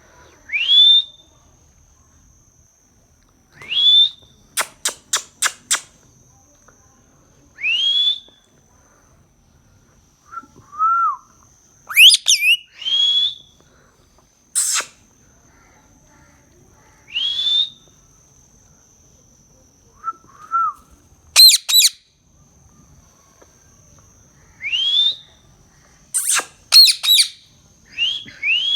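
Parrot calling: rising whistles repeated every few seconds, a quick run of short sharp calls, and several harsh screeches.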